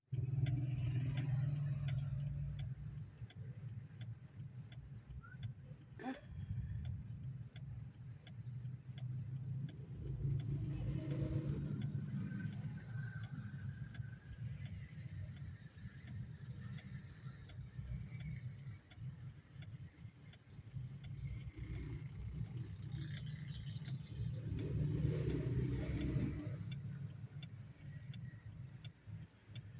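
Road traffic: a steady low engine rumble, with vehicles swelling loudest as they pass three times, near the start, about ten seconds in and about twenty-five seconds in.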